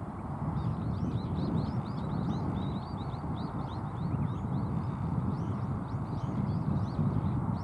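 Birds calling in quick runs of short, high chirps over a steady low rumble of background noise.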